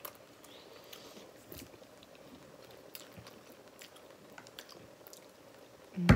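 Quiet chewing of instant hotpot noodles and fillings, with faint scattered mouth clicks and smacks. A brief loud voice sound comes near the end.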